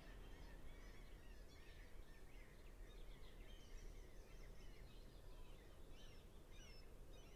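Faint chirping of many small birds, scattered short calls overlapping each other, over a low steady rumble.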